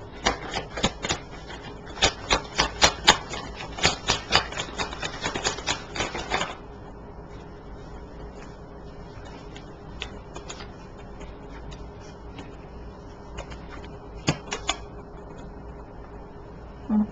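Tarot cards being handled against a table: a quick run of sharp clicks and taps for about six seconds, then a few more clicks near the end.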